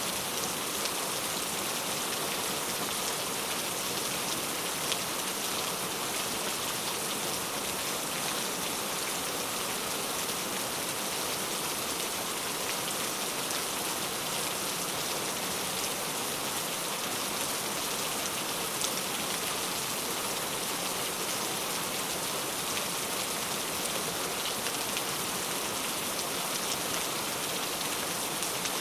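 Heavy rain falling steadily, a dense even hiss with the fine patter of individual drops striking a surface.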